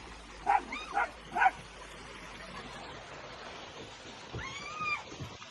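A small pet's calls: three short, high calls about half a second apart, then one longer call near the end.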